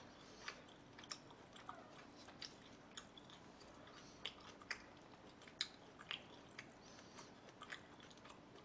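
Faint, close-miked chewing of a mouthful of wood-fired barbecued pork belly: short wet smacks and clicks at an irregular pace, roughly two a second.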